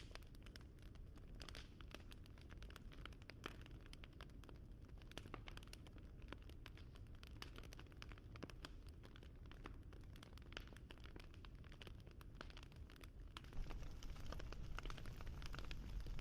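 Wood fire crackling, with irregular small pops and snaps over a low rumble. It grows louder about three seconds before the end.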